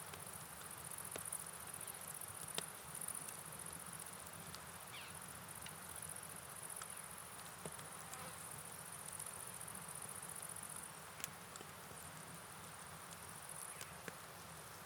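Steady rain-and-river ambience: a soft even hiss of rainfall and running water, with a continuous high insect chirr like crickets over it and scattered sharp drip-like clicks.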